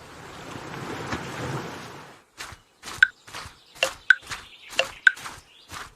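Cartoon sound effects: a swelling and fading whoosh of noise, then a run of about ten short, irregular knocks or steps, some with a brief ring.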